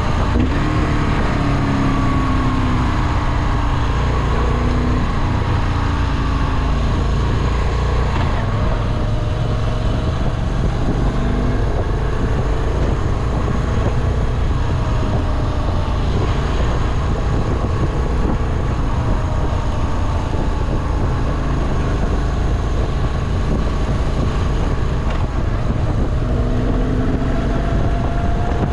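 Moto Guzzi V7 Classic's air-cooled transverse V-twin running under way on the road, its pitch rising and falling as the revs change, with wind noise on the microphone.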